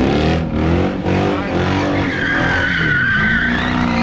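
A car engine revving hard, its pitch rising and wavering, while the tyres squeal from wheelspin. A sustained high tyre screech comes in about two seconds in.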